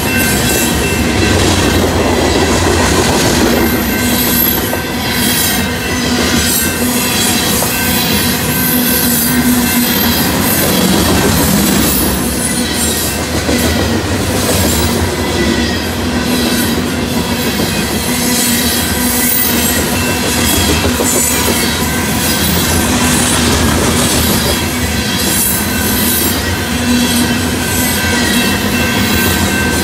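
Freight train of covered hopper cars rolling past at a grade crossing: a steady rolling noise of steel wheels on the rail, with a few steady high tones over it.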